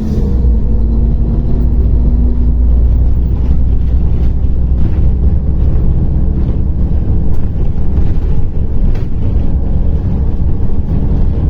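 Diesel engine and running gear of a MAZ-105 articulated city bus heard from inside the passenger cabin while driving: a steady, loud low rumble with faint light rattles.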